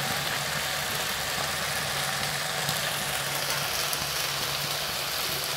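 Noodles and vegetables sizzling steadily in a steel wok over a high flame as they are stir-fried, with a faint low hum underneath.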